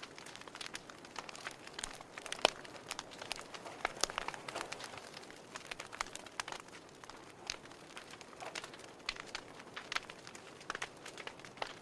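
Wood fire crackling in a fireplace: irregular sharp pops and snaps over a soft hiss, the strongest pop about two and a half seconds in.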